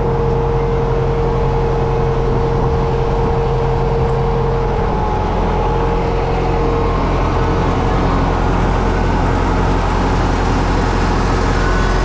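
U650 tractor's diesel engine running steadily and loud, its note shifting slightly about five seconds in.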